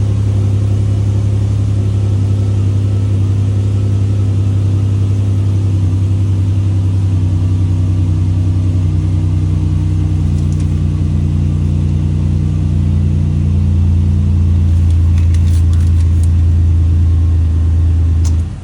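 2006 Chevrolet Impala engine idling steadily just after being started, with a deep even hum, then switched off near the end.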